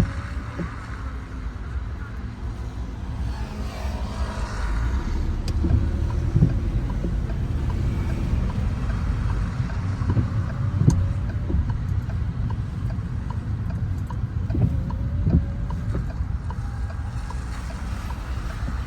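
Car driving on city streets: a steady low rumble of engine and tyres, with a few short thumps along the way.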